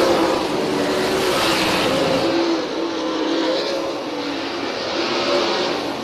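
410 sprint cars racing, their 410-cubic-inch V8 engines running hard at high revs. Several engine notes waver in pitch as the cars pass and go through the turns.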